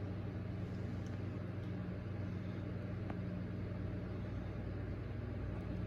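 A steady low mechanical hum, with a faint tick about three seconds in.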